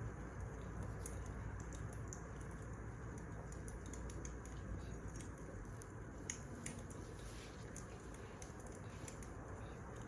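Wood fire crackling: scattered, irregular pops and snaps over a steady low rush of burning logs, with one sharper pop about six seconds in.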